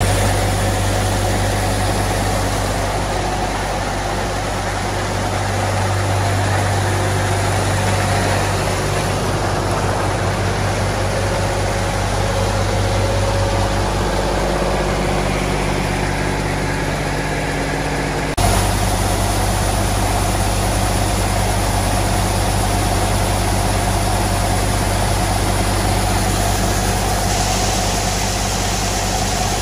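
A vehicle engine running steadily at an even speed, with an abrupt cut about 18 seconds in to a similar steady engine sound.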